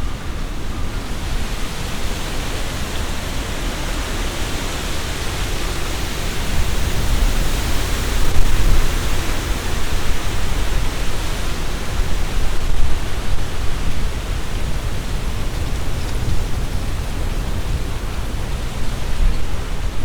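Strong wind gusting through trees, the leaves rustling, with a deep rumble of wind buffeting the microphone. The gusts swell about a third of the way in and ease off again after the middle.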